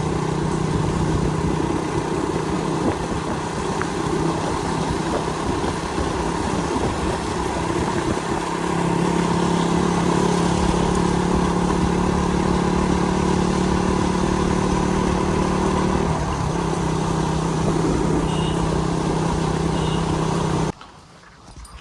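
Motorcycle engine running while riding, a steady engine note under a continuous rushing noise; the note rises slightly about nine seconds in and falls back around sixteen seconds, then the sound cuts off suddenly near the end.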